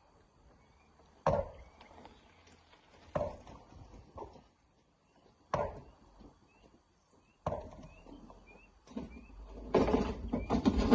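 Single heavy knocks of rock being worked by hand, about one every two seconds. Near the end they give way to a louder, continuous rumbling clatter.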